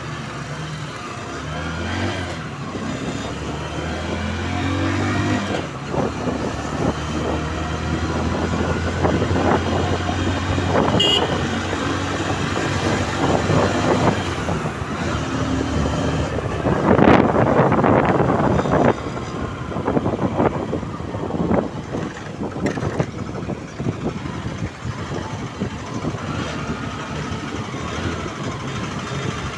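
Road vehicle engine running on the move with road noise, its pitch rising over the first few seconds as it speeds up. About two-thirds of the way through there is a louder rush of noise for about two seconds.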